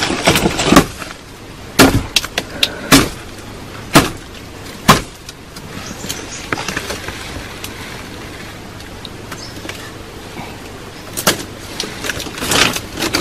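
A series of sharp knocks and cracks, several in the first five seconds and a few more near the end, with a steady faint hiss between them.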